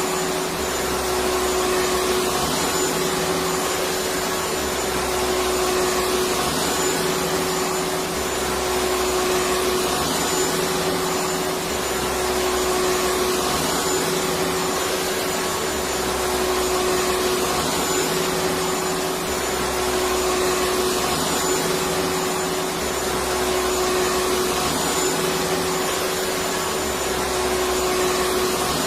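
Electric vacuum cleaner running steadily, a constant hiss with a steady hum, and a low throb that swells and fades about every two seconds.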